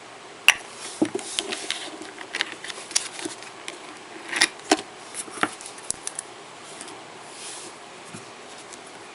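Nail-stamping tools being handled: a series of sharp clicks and taps with a few short scrapes, loudest about half a second in and again around four and a half seconds, as the polish is scraped across the stamping plate and picked up with the stamper.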